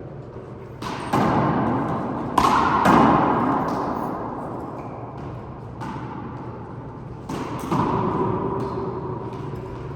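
Four-wall handball rally: the rubber ball slapped by hand and smacking off the walls in sharp hits, each trailing off in an echo. The hits come in quick pairs about a second in, near three seconds in and again past seven seconds.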